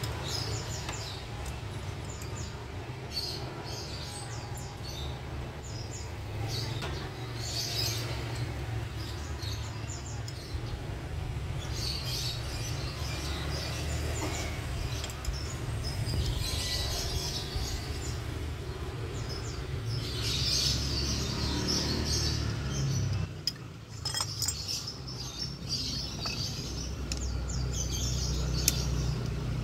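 Birds chirping in repeated short bursts over a steady low hum, with a single sharp click near the end.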